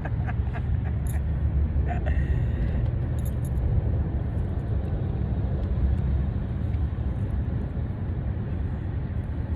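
Steady low rumble of a motor vehicle, with a few faint ticks in the first couple of seconds.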